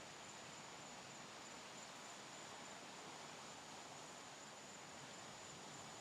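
Faint, steady hiss of ocean surf with no distinct wave breaks, and a thin high steady tone above it.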